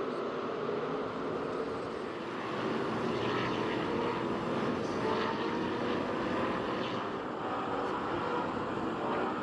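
Stock car V8 engines running at racing speed, a loud continuous drone of several cars, with the pitch rising in places as they accelerate.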